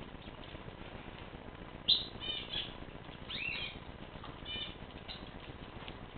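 Small pet birds chirping. A sharp call about two seconds in is the loudest, and several short chirps and a rising call follow over the next few seconds.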